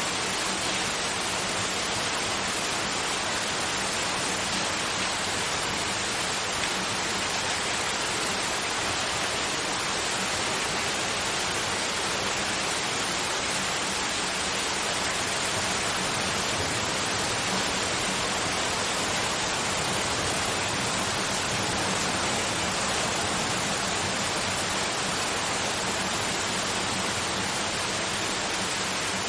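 Steady, unchanging broadband noise like white noise, an even hiss centred in the mid and high range, with no breaks or events.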